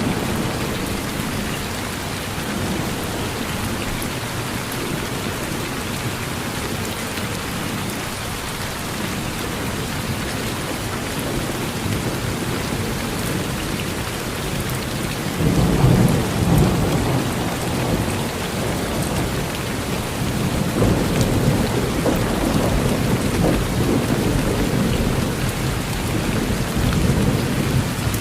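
Steady rain falling on a porch roof, with a low roll of thunder that swells up a little past halfway and keeps rumbling.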